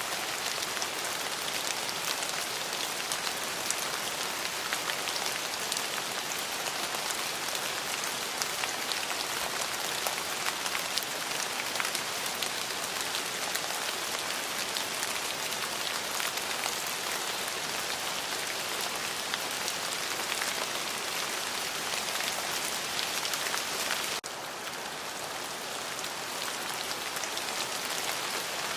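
Steady heavy rain falling on a surface, a dense patter of individual drops over a constant hiss. Near the end it drops abruptly to a slightly softer, duller rain, as at a splice between two recordings.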